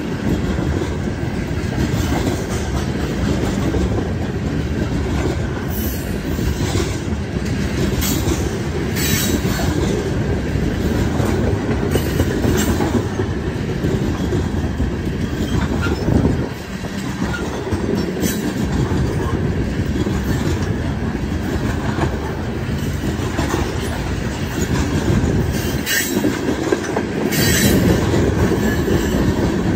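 Freight train of ethanol tank cars rolling past close by: a steady rumble of steel wheels on rail, with scattered sharp clacks as the wheels pass over the track.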